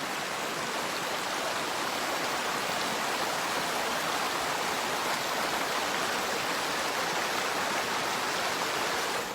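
Water from a pond's overflow pouring steadily over a small waterfall into a woodland creek, a constant rushing.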